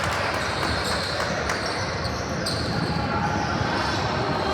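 Game noise in a gym: a basketball bouncing on the floor during play, with voices in the background.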